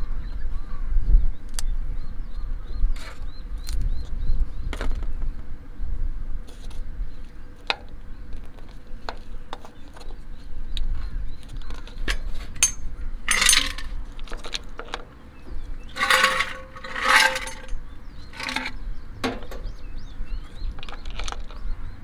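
Scattered light clinks and knocks of drinkware and utensils while a drink is mixed. There are two louder rustling, hissing bursts a little past halfway, and a low wind rumble on the microphone.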